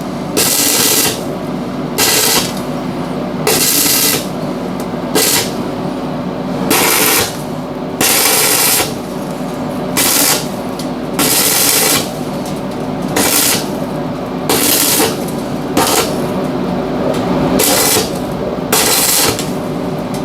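Arc welding on a door frame in short bursts: a crackling hiss of about half a second to a second, repeated roughly every one to one and a half seconds, over a steady machine hum.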